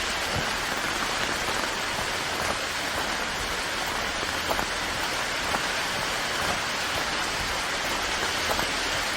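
Steady heavy rain: a dense, even hiss of falling water with scattered individual drops ticking through it.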